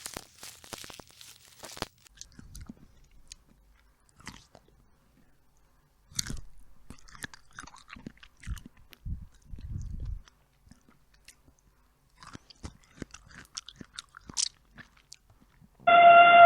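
An animal chewing and crunching food: scattered crisp crunches with short pauses between bouts. In the last moment a loud animal call with a falling pitch begins.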